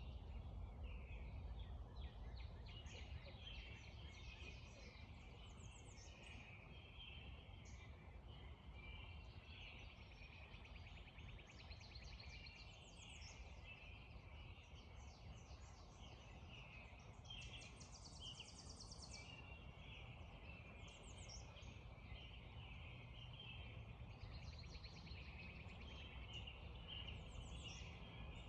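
Faint dawn chorus: several songbirds calling and trilling over one another, with a buzzy trill about a second long near the middle, over a steady low rumble.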